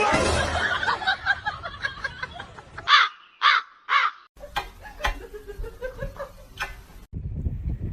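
A bird calls three times, short and harsh, about half a second apart, like a crow's caw.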